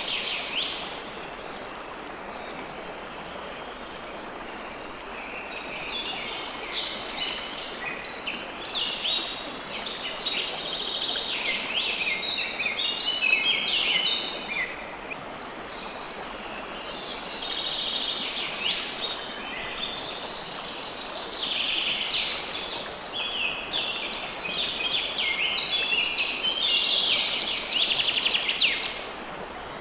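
River water flowing steadily, with many birds chirping and singing in overlapping bursts; the birdsong is sparse for the first few seconds and fills in from about six seconds in.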